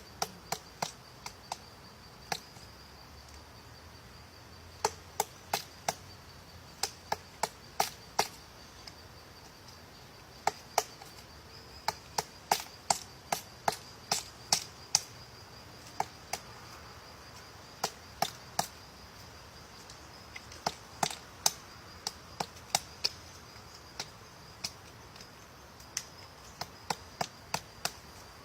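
Woodpecker pecking at wood: sharp single taps in irregular clusters, a few strokes at a time with pauses between, not a fast drumming roll.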